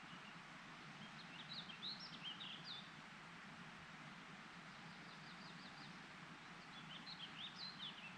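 A songbird singing two quick, jumbled phrases of short high notes about five seconds apart, with a brief run of chips between them, over a faint steady background hiss.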